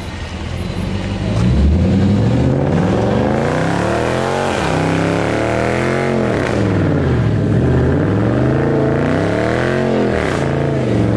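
Dodge Charger engine revving hard during a burnout, the revs rising and falling again and again as the rear tyre spins. The engine gets louder about a second and a half in, with deep dips in revs a few times.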